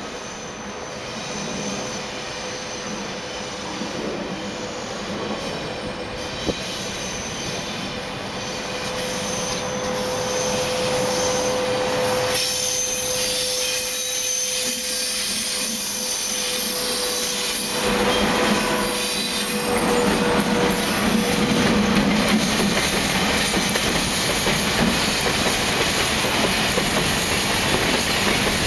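A freight train hauled by two SS4G electric locomotives draws near and passes, growing steadily louder, with a steady tone sounding as the locomotives go by. From about 18 s in, a long string of empty coal wagons rolls past, with the wheels clattering on the rails.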